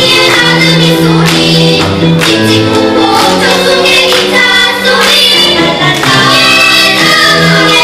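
Children's vocal ensemble singing a Korean children's song in several voices over an instrumental accompaniment, the sung phrases continuing without a break.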